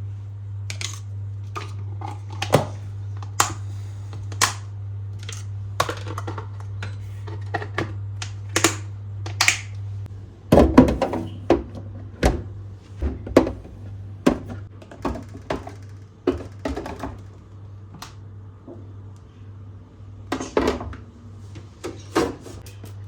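Irregular clicks, knocks and thunks of containers, jars and lids being handled and set down while a refrigerator is being organized. Under them runs a steady low hum that stops about halfway through.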